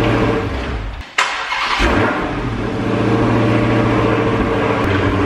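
Dodge Challenger Hellcat's supercharged 6.2-litre Hemi V8, running with the supercharger belt off, is shut off about a second in, then cranked and restarted, settling into a steady idle. It is being started and stopped to listen for an intermittent chatter, which the owner describes as valve chatter on start-up.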